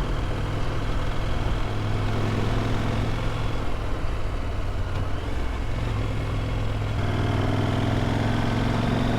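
KTM adventure motorcycle's engine running steadily under way, under a steady rush of wind noise. From about seven seconds in, the engine note slowly rises as the bike picks up speed.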